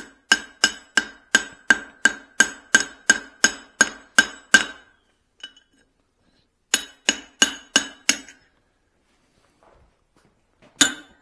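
Hand hammer striking hot steel on an anvil, light cleanup blows on a small cross peen hammer head, each with a bright metallic ring. A steady run of about a dozen blows at roughly three a second, a pause, five more, then a single blow near the end.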